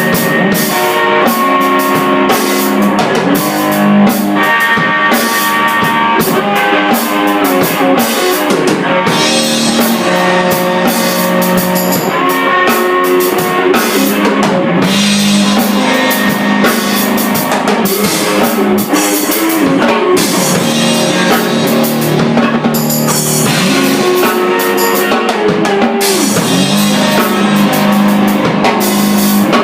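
Electric guitar and drum kit playing an improvised rock jam, with sustained guitar notes over steady drumming.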